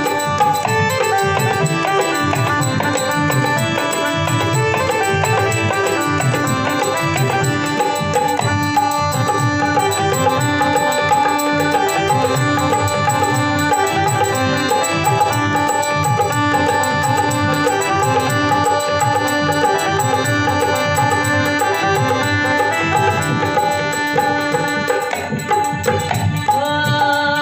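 Rajasthani folk music played live: an instrumental passage with a steady hand-drum rhythm under a melodic instrument line.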